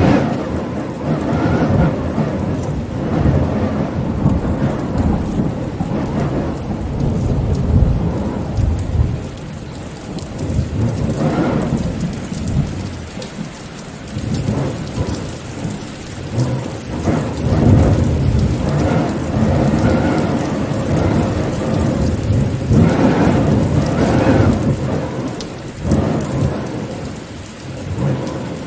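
Steady rain falling, under deep rolling rumbles of thunder that swell and fade several times.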